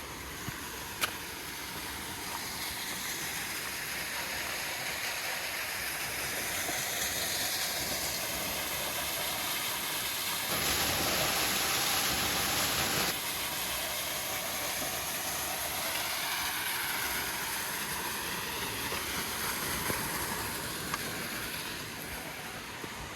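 Waterfall rushing, a steady roar of falling water, full after a night of rain. For a couple of seconds in the middle it is suddenly louder, then drops back just as abruptly.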